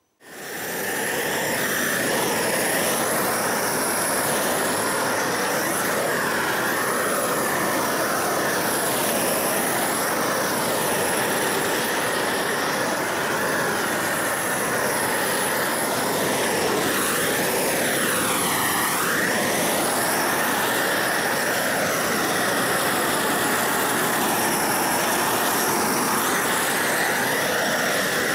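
Homemade gas torch burning with a loud, steady rushing noise while it melts torch-on bitumen roofing felt onto the roof. The noise cuts in suddenly at the start and holds even throughout.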